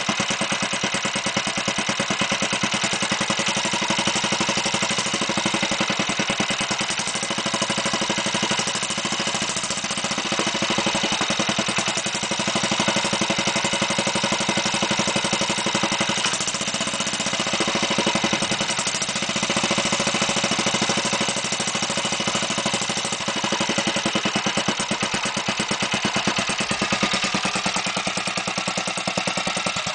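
Restored Bernard type 318.a cement-mixer engine running steadily at an even speed, with a rapid regular exhaust beat.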